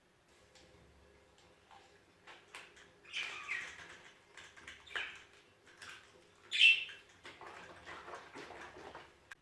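Budgerigars chirping in short bursts, with scattered clicks and rustling; one louder, sharper chirp about two-thirds of the way through.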